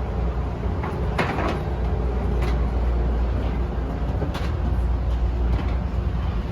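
Steady low rumble of airliner and jet-bridge ambience while deplaning, with a few scattered knocks and clicks, the clearest about a second in.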